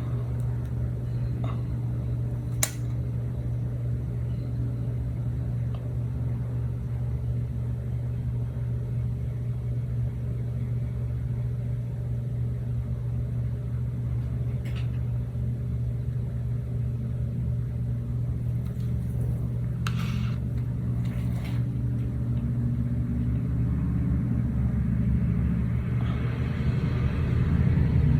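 A steady low mechanical hum, with a few faint clicks and taps now and then and a soft hiss rising near the end.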